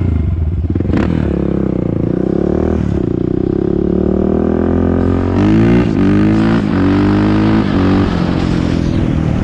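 2001 Honda TRX400EX's single-cylinder four-stroke engine running under way, its pitch rising and falling with the throttle several times, loudest about five to six seconds in.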